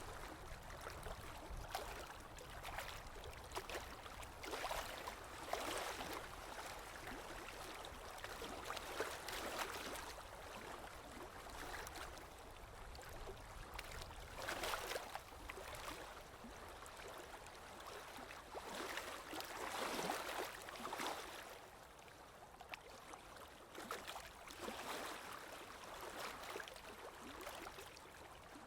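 Sea waves washing onto a shore, each wave a soft swell of hiss that comes in every four to six seconds and then dies away.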